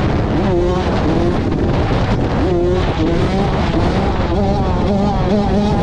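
2006 Honda CR85's 85 cc two-stroke engine being ridden, revving up and dropping back several times as it is run through the gears.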